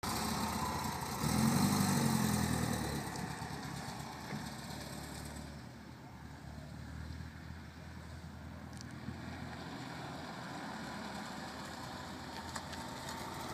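Volkswagen Karmann Ghia's air-cooled flat-four engine revving as the car pulls away, loudest a second or two in, then fading as it drives off and staying faint and steady while it circles back.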